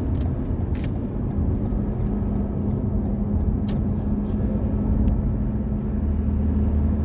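Semi-truck on the move: steady low engine drone with road noise, and a couple of short clicks.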